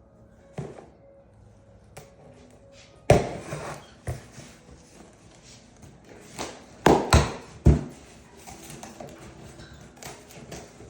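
A cardboard box being handled and opened: a series of sharp knocks and thumps, the loudest about three seconds in and a quick cluster of three near the middle, with scraping and rustling of cardboard between.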